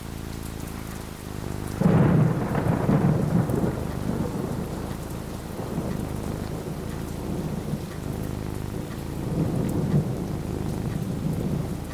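Steady rain falling, with a rumble of thunder breaking in suddenly about two seconds in and rolling away over the next few seconds, then a second, softer roll of thunder near the end.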